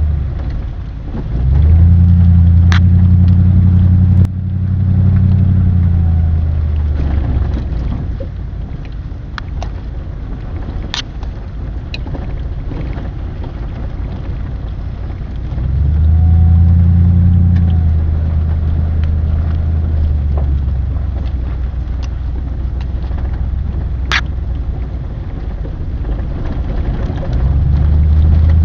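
A vehicle engine running, a steady low hum that swells and eases several times and drops off suddenly about four seconds in, with a few sharp clicks over it.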